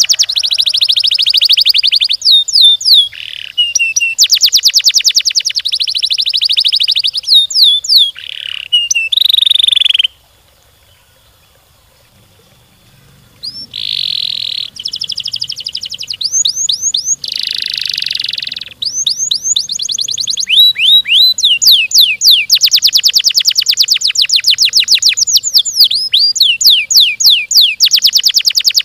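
Domestic canary singing long, fast rolling trills of rapidly repeated notes mixed with quick down-slurred whistles. The song breaks off for about three seconds roughly ten seconds in, then resumes.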